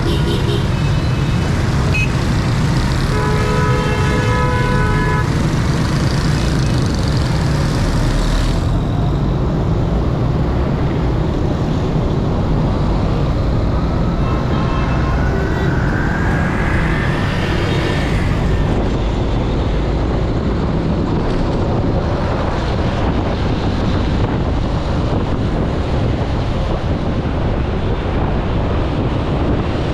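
Busy road traffic with a steady low rumble, and vehicle horns honking: a short toot at the start, a longer horn blast about three seconds in, and more short toots midway. A rising whine runs through the middle.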